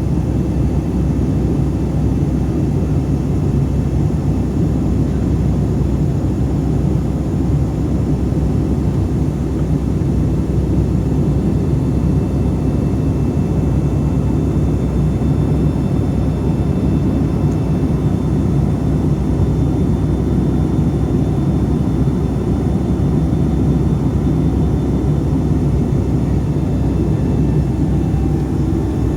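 Steady cabin noise of a Boeing 757-300 in flight: an even low rumble of engines and airflow with a few faint steady tones above it, unchanging throughout.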